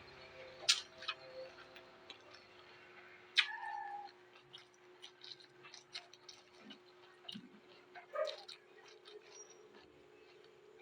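Close-miked chewing of raw vegetables: scattered small crunches and mouth clicks, with two louder, briefly tonal sounds about a third of the way in and near three-quarters.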